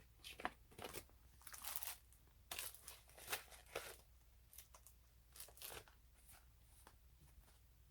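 Packaging and paper being handled, rustling and crinkling faintly in short, irregular bursts.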